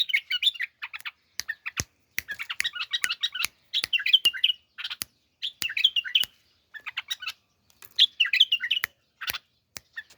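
A pet bulbul chirping in several short bursts of rapid twittering notes, with sharp clicks between them.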